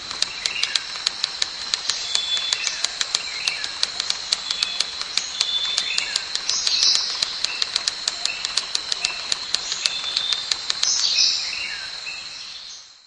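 Birds chirping over a rapid, regular clicking, about four clicks a second, and a steady high-pitched tone; the sound fades out near the end.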